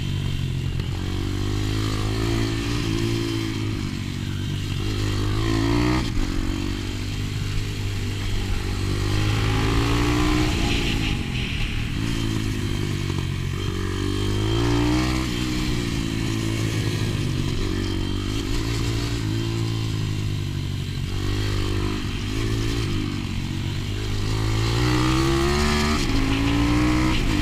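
125 cc pit bike engine under hard riding, its pitch climbing in long rising sweeps and then dropping back every few seconds as the rider accelerates and backs off around the track.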